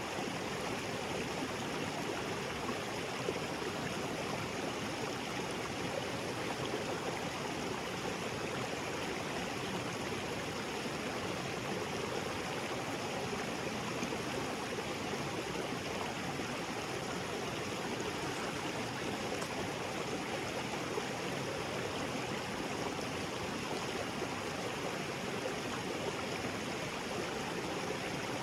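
Small waterfall pouring into a rocky jungle creek: a steady, even rush of falling and splashing water.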